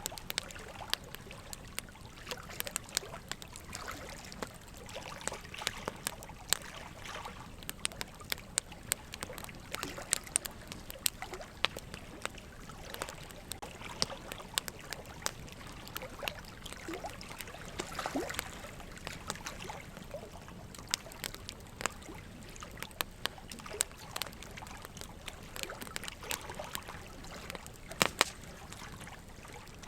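Wood fire crackling: a steady low hiss broken by frequent irregular sharp pops and snaps, with two louder pops near the end.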